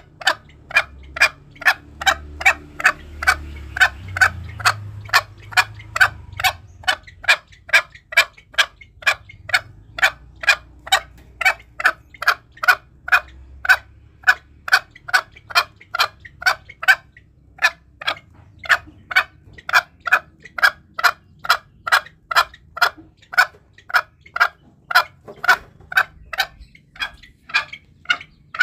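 Green junglefowl giving short, sharp call notes in a fast, even series of about two and a half a second, with a short pause partway through. This is a lure call meant to provoke wild junglefowl.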